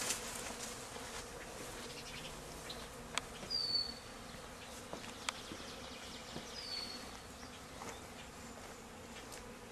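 Honey bees from a freshly shaken swarm buzzing steadily as they fly about. Two short high falling chirps sound about a third of the way in and again past two-thirds.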